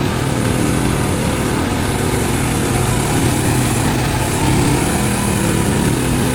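Small gasoline engine of a mini excavator running steadily.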